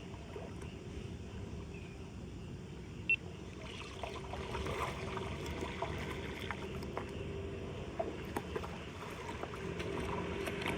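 Flood water trickling and pouring into a street drain. It grows a little fuller about four seconds in, with scattered small clicks over it.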